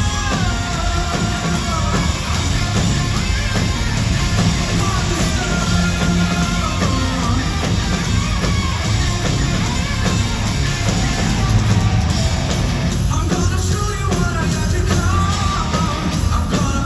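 Rock band playing live, loud and dense, with heavy drums and bass under a sung lead vocal. The vocal drops out briefly about thirteen seconds in, then comes back.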